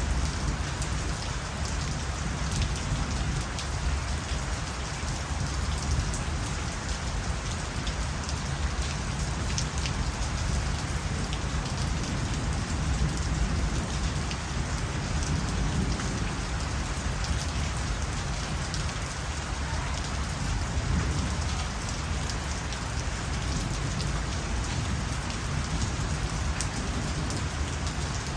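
Steady rain falling: an even, dense hiss with many fine ticks of individual drops striking surfaces.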